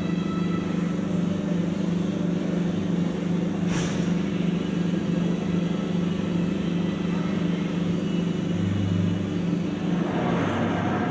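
Large diesel engine running at a steady speed, a constant low hum. A brief sharp hiss about four seconds in.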